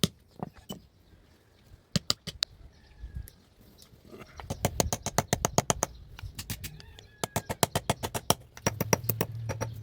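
Hand hammer striking hot steel on an anvil while forging a knife blade: a few blows, a pause, then quick runs of sharp, ringing strikes. A low steady hum comes in near the end.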